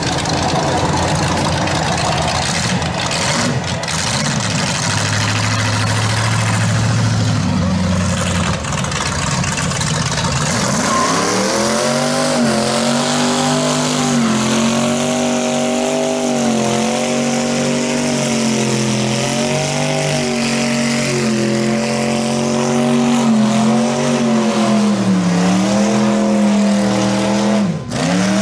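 Hot-rod pickup engine running hard through a burnout: from about ten seconds in it is held at high revs, its pitch wavering up and down as the throttle is worked, over a broad hiss from the spinning rear tyres. Before that, engine noise as the truck pulls up.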